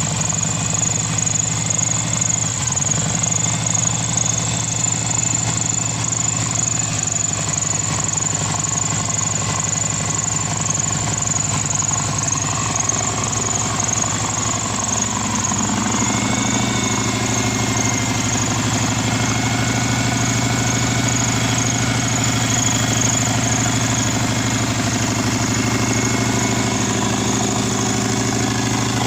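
Subaru EJ255 2.5-litre turbocharged flat-four engine running steadily at idle with no downpipe fitted, so it runs a bit noisy; its note steps up slightly about halfway through.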